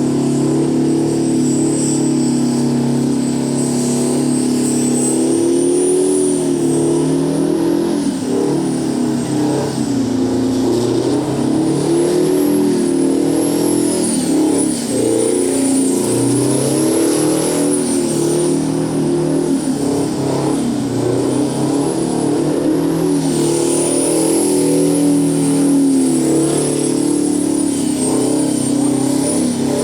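Detroit 16V92 two-stroke diesel engine, twin-supercharged and turbocharged, held at high revs for a truck burnout, its note wavering up and down with a high whine rising and falling over it.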